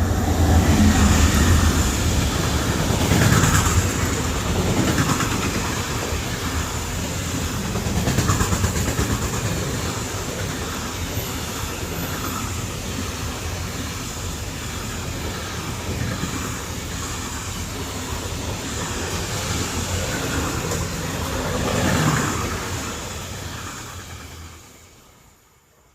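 Train passing close by, its wheels clattering over the rail joints. The sound swells several times as the cars go by, then dies away just before the end.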